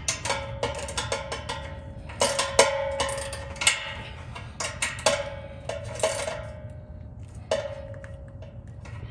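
Irregular metallic clinks and taps, several leaving a short ringing tone, from tools working the bolts of a steel exhaust cutout as it is tightened.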